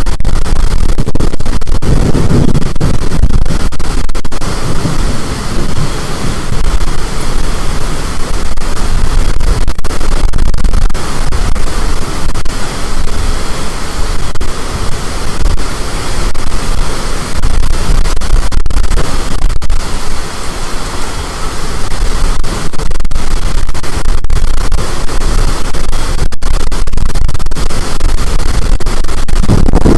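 Storm-force wind blasting the microphone: a loud, distorted, unbroken rush of noise, heaviest in the low end, with no let-up.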